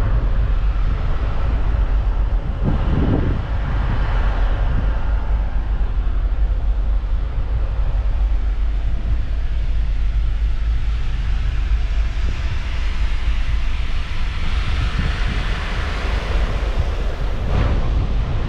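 Wind buffeting the microphone over a steady low rumble and the wash of the sea, heard aboard a ferry under way. The wind swells about three seconds in and again near the end.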